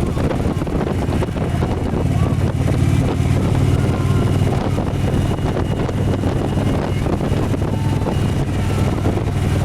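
Motorcycle engine running at a steady road speed, its note strengthening about two and a half seconds in, with wind buffeting the microphone throughout.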